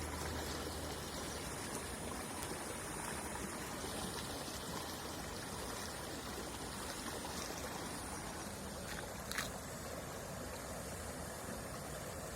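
Flowing water rushing steadily, with one short sharp click about nine seconds in.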